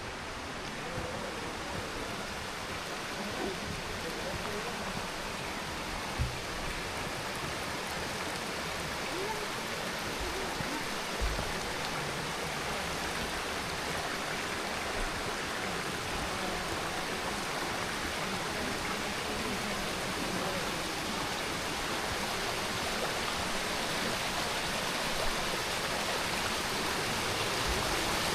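Steady rushing of the Curueño river's mountain water, growing slowly louder, with a couple of soft low thumps.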